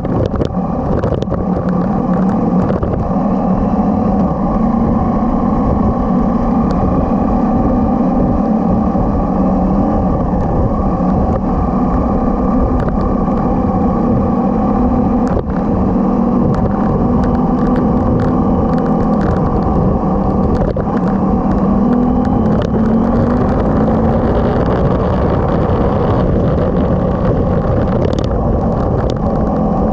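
Motorcycle engine running steadily while riding, with low rumbling wind noise on the microphone. In the last third the engine's pitch shifts up and down a little.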